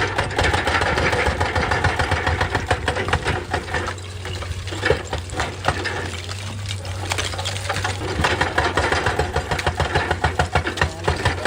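Excavator at work: its diesel engine running steadily under a dense, rapid clatter of metal knocks, which comes in a fast regular pulse near the end.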